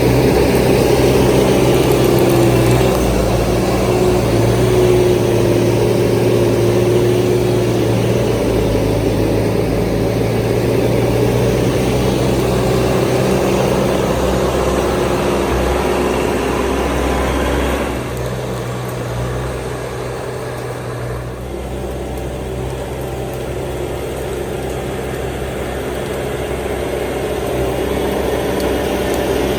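Bobcat T650 compact track loader's diesel engine running steadily as it works. It eases off about two-thirds of the way in, then builds again near the end.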